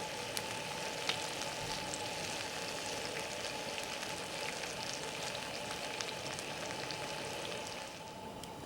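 Wood campfire burning, with a steady hiss and frequent sharp crackles and pops, a louder pop about a second in.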